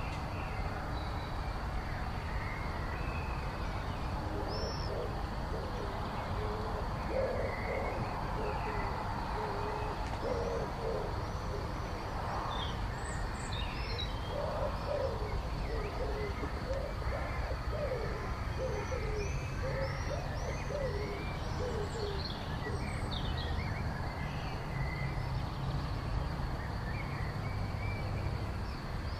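Birds singing and calling in an evening chorus: many short high chirps and whistles. Through the middle there is a run of low, repeated notes from a larger bird, and a steady low rumble sits underneath.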